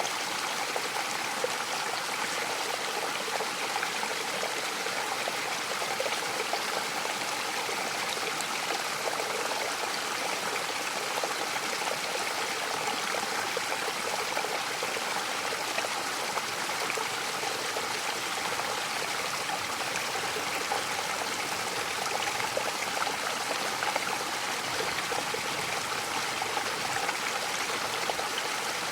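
Mountain waterfall splashing steadily, an even rush of water without breaks.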